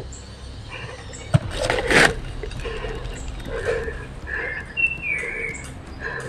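A sharp click, then a brief rustle around two seconds in, and a short falling chirp like a bird call about five seconds in.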